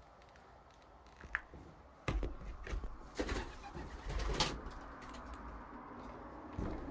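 Birds cooing, with a few sharp knocks and crunches about two, three and four and a half seconds in.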